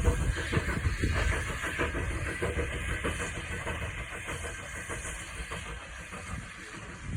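A heritage railway train running past and moving away, its low rumble and clatter fading steadily over several seconds.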